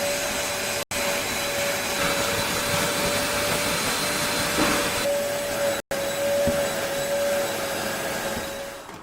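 A vacuum cleaner running steadily: a constant whine over a loud rushing hiss, broken by two very brief gaps.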